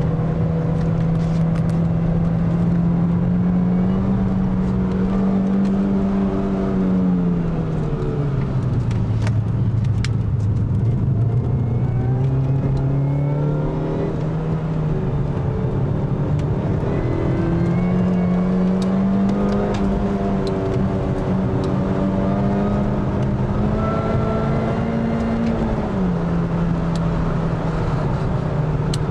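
Mini Cooper S R53's supercharged 1.6-litre four-cylinder engine heard from inside the cabin while lapping a circuit. The revs climb slowly, fall off about seven seconds in, climb again through the middle, and drop once more near the end.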